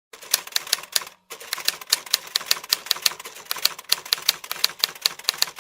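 Typing sound effect: a quick, uneven run of sharp key clicks, several a second, with a short pause about a second in.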